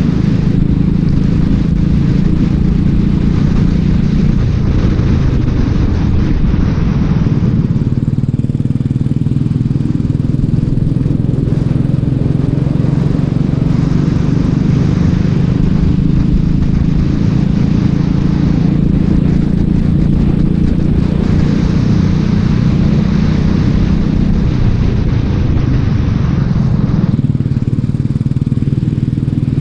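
Racing kart engine running hard and continuously. Its note dips and recovers several times as the throttle is lifted and reapplied through corners.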